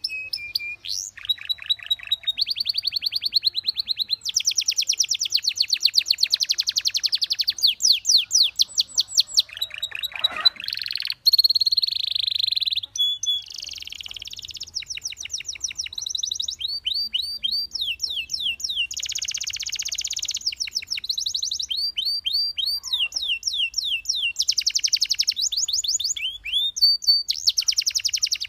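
Canary singing a long, continuous song: fast trills and rolls of rapidly repeated high notes, switching to a new pattern every second or two, with short whistled notes in between.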